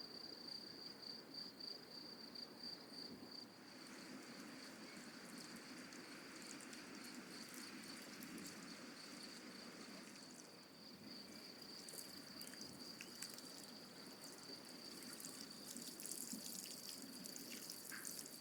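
Faint outdoor ambience: a cricket trilling steadily at a high pitch, with a few faint clicks and ticks in the second half.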